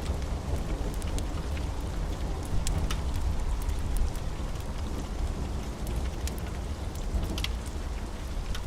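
Wood fire in a fireplace crackling: scattered, irregular sharp pops and snaps over a steady low rumble of the burning fire.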